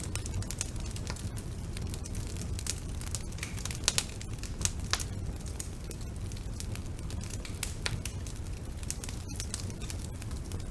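Wood fire burning in a fireplace: irregular crackles and snaps over a steady low rumble of the flames, with a few louder pops about four and five seconds in.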